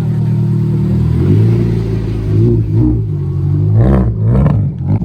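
A rally car's engine coming past, first holding a steady note, then revving up and dropping back several times as it shifts gears.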